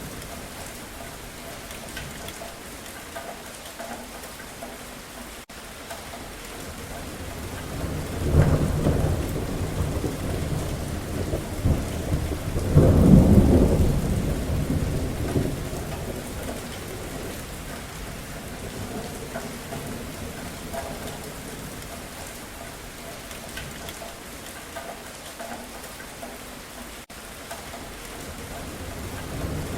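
Steady rain falling, with thunder rolling twice: a rumble about eight seconds in, then a louder, longer one about thirteen seconds in that slowly fades. Another roll of thunder begins near the end.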